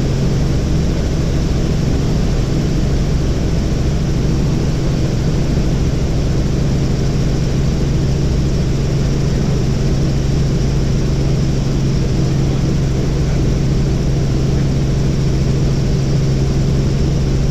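Helicopter in flight: the steady drone of the rotor and engine, with a strong constant low hum.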